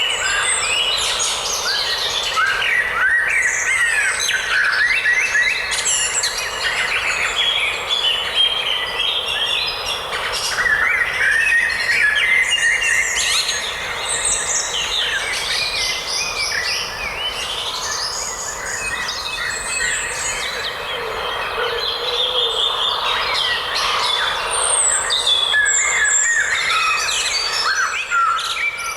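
A dense chorus of many wild birds singing at once: rapid, overlapping chirps, trills and sweeping whistles, with no break.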